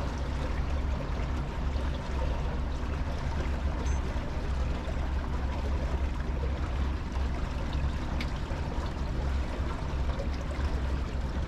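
Sauna boat underway: a steady low motor hum under the sound of water rushing past the hull.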